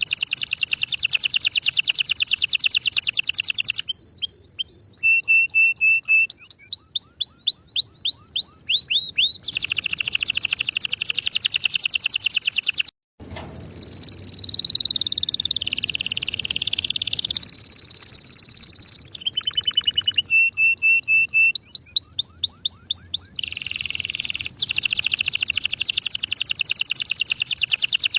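Domestic canary singing a long, loud song: rapid rolling trills alternating with phrases of repeated, quickly falling whistled notes. The song breaks off for a moment about halfway through, then goes on.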